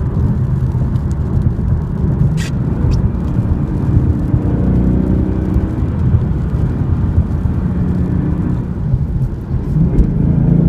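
Ford Mustang GT's 5.0-litre V8 running while the car drives, its engine note rising about four seconds in, over the hiss of tyres on a wet road.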